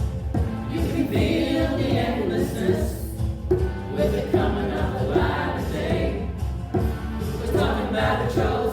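A choir singing together, several voices holding and moving between sustained notes over a steady low accompaniment.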